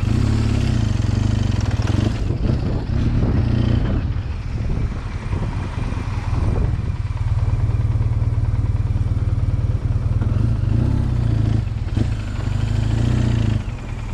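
BMW R1200GS boxer-twin engine running at low speed, its note rising and falling a few times.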